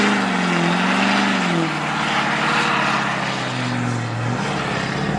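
A car engine revving. Its pitch holds high for about a second and a half, then drops and runs lower until about four seconds in, over a steady rushing noise.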